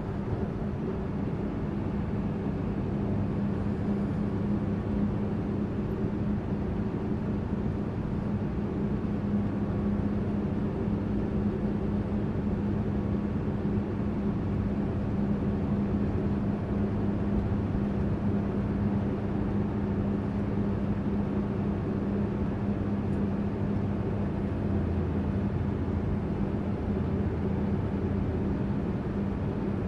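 Tourist bus on the move, heard with its diesel engine's steady drone and road rumble. It holds an even pitch with no gear changes or revving.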